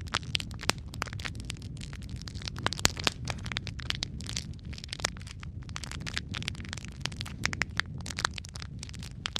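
Wood fire burning in a fireplace: a steady low rumble of flames with dense, irregular crackles and pops, the sharpest about three seconds in.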